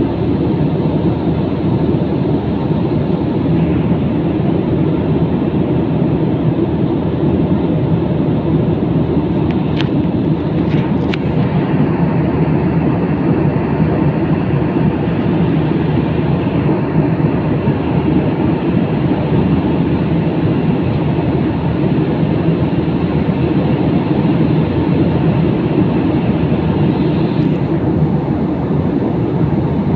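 Jet airliner cabin noise in flight: the steady, even rush of engines and airflow heard from a passenger seat, with a couple of faint clicks about ten seconds in.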